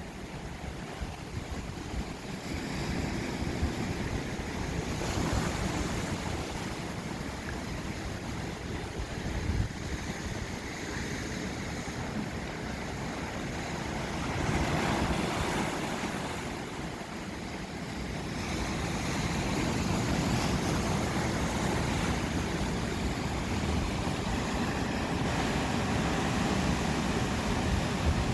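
Ocean surf washing ashore in slow swells that rise and ease several times, with wind buffeting the microphone.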